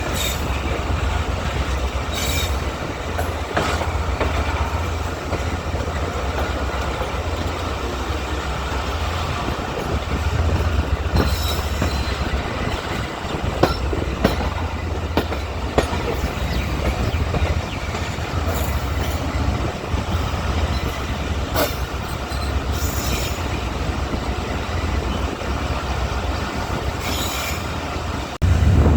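Passenger train running: a steady rumble of the coaches, with wheel clicks over rail joints and brief wheel squeals every few seconds. A louder rumble cuts in suddenly near the end.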